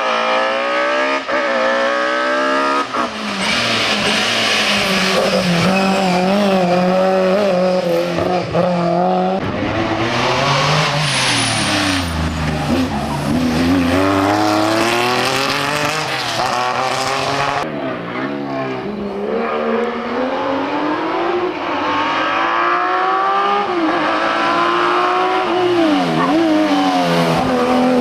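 Historic rally car engines at full throttle on a special stage, the pitch climbing and dropping sharply again and again as they shift up through the gears, with a stretch of braking and lower revs in the middle.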